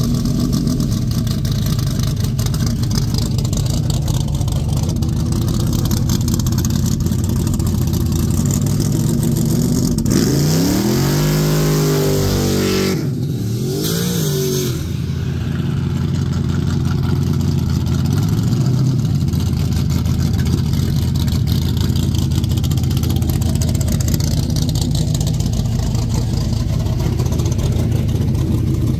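Car engine idling loudly close by, with brief revs that rise and fall in pitch about ten and thirteen seconds in.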